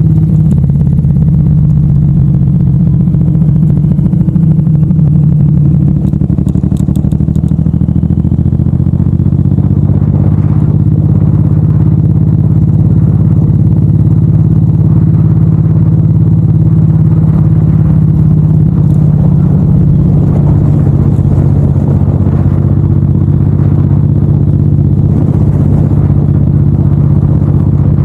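Suzuki M109R's 1783 cc V-twin engine running steadily under way, heard from a handlebar-mounted camera. The loud, low engine note holds a near-constant pitch, with only small shifts.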